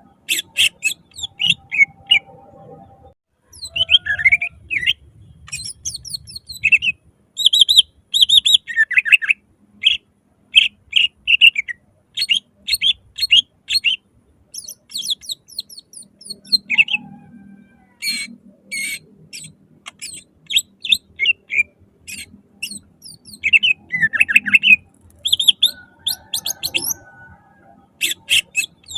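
Cucak ijo (green leafbird) singing loudly in rapid runs of sharp chirps and quick falling whistled notes, broken by short pauses.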